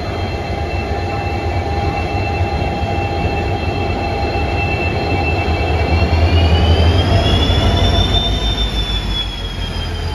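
A train running along the platform with a low, steady wheel rumble and a high squeal from its wheels on the rails. About six seconds in the squeal rises in pitch and grows louder, then slowly falls again.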